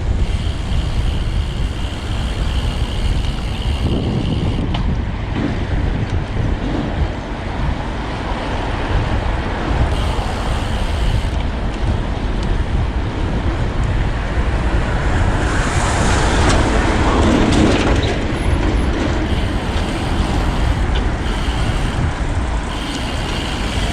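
Road traffic noise heard from a moving bicycle, over a steady low rumble of wind on the microphone. The traffic swells louder between about sixteen and eighteen seconds in.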